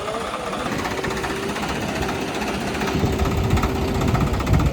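Heavy diesel engine running under load, with a steady whine held from about a second in and a heavier low rumble building about three seconds in.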